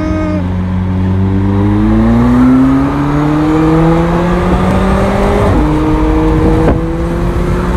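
McLaren 720S twin-turbo V8 accelerating hard, heard from inside the cabin. The engine note climbs steadily in pitch, then drops about five and a half seconds in as the car shifts up a gear, and runs on steadily after.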